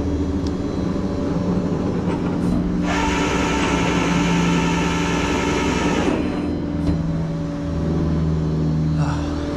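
A vehicle engine idling steadily. From about three seconds in, a loud hiss with a whine on top runs for about three seconds, then stops.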